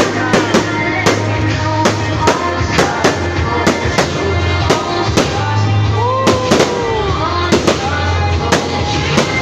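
Fireworks going off in quick, repeated bangs over loud music with a steady bass line.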